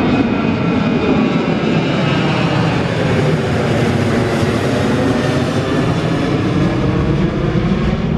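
Jet airliner engines at take-off power: a loud, steady engine noise with faint whining tones layered over it.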